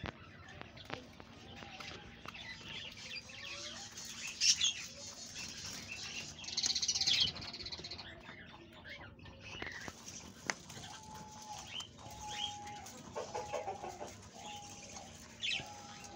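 Birds chirping and calling, with a run of short, even-pitched calls repeating in the second half and a hiss lasting about a second near the middle.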